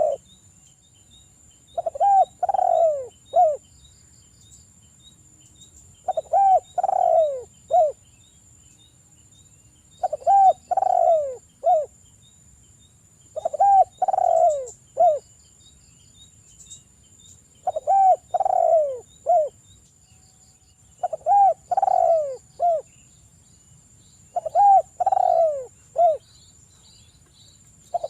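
Derkuku (spotted dove) cooing: the same short phrase of three or four falling coos, ending in a brief clipped note, repeated about every three to four seconds, eight times.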